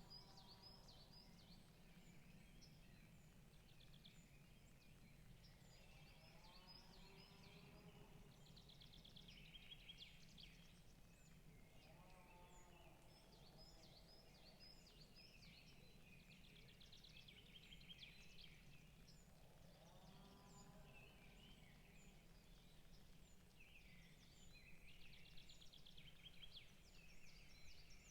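Faint forest bird chorus: several small birds chirping and trilling continuously, with a lower call recurring about every six to eight seconds over a steady low background hum.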